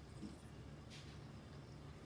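Near silence: faint room tone with a low steady hum and a faint tick about a second in.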